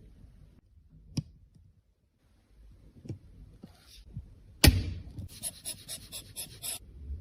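Hands working on cosmetics during a makeup repair: a sharp click, a few light taps, and a loud knock, then quick rhythmic scraping, about six strokes a second for a second and a half.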